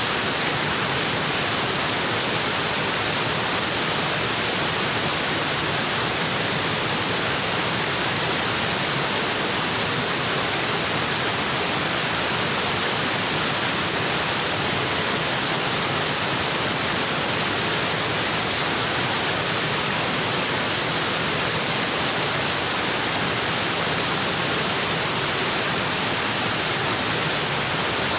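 Waterfall pouring onto rocks: a steady, unbroken rush of water that stays even throughout.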